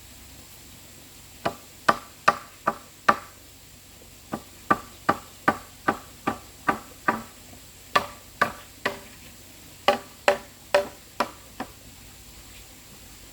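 A series of sharp knocks or strikes, about two to three a second, in four runs separated by short pauses.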